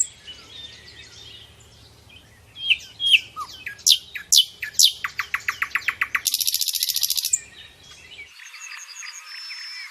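Birds singing: a run of sharp whistled notes sweeping down in pitch, then a loud, fast trill of evenly repeated notes for about two seconds, followed by fainter high chirping after an abrupt change near the end.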